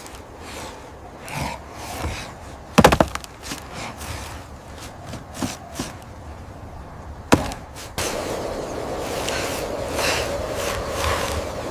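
A couple of loud, sharp knocks, one about three seconds in and one about seven seconds in, among softer short taps. A steady rushing noise begins about eight seconds in.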